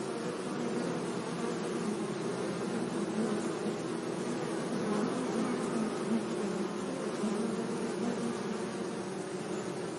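Many bees buzzing together in a steady hum that wavers in pitch as individual bees fly close and away.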